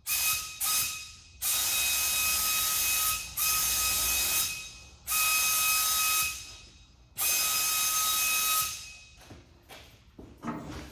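Compressed-air paint spray gun spraying primer in repeated trigger pulls: two short bursts of hiss, then four longer ones of one to two seconds each, with a thin whistle of air through the gun over each burst.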